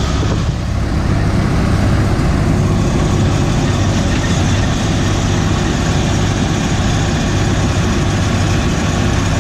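John Deere 3300 combine running steadily while harvesting wheat: a constant low engine hum with the machinery's noise over it.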